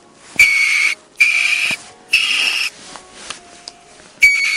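Ferret hissing in four short, shrill bursts of about half a second each, with gaps between them.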